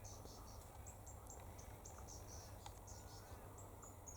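Faint, high-pitched short chirps repeating irregularly, several a second, over a low steady hum.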